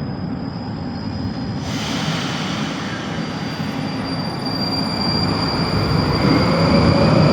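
Ermak metro train pulling out of the station, its wheel and running noise growing louder as it gathers speed. A thin high whine runs over it, and another whine rises in pitch near the end.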